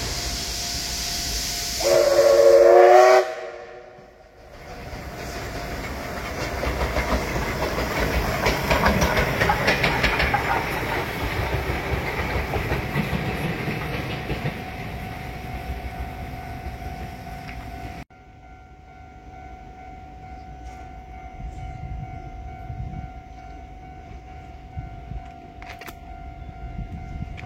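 A train sounds its horn in a blast of about a second, then passes at speed with wheels clattering over the rail joints, the rumble building and then fading. About two-thirds of the way through the sound cuts off abruptly, leaving a quieter background with a steady hum.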